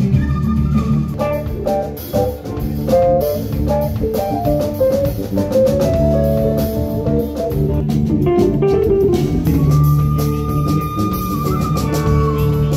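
Live rock-pop band playing: electric guitar lines over bass guitar and a drum kit, with a sustained lead note near the end.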